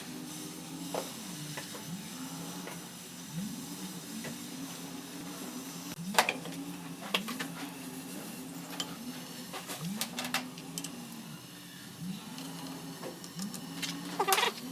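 Scattered metallic clinks and knocks of tool work on metal, over a low hum that rises and falls in pitch about once a second.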